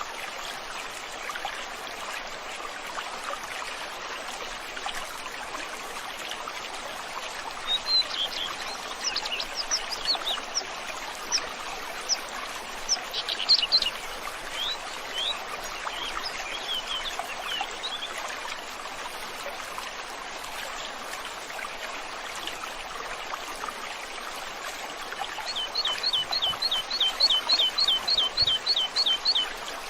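Stream water running steadily, with songbirds chirping over it: scattered chirps through the middle, and near the end a fast run of repeated two-note chirps at about four a second.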